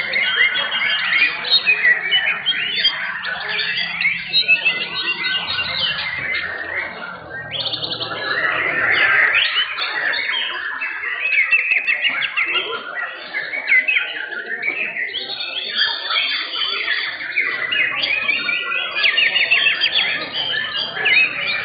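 Many caged white-rumped shamas (murai batu) singing at once while competing: a dense, continuous chorus of fast, overlapping whistles and trills.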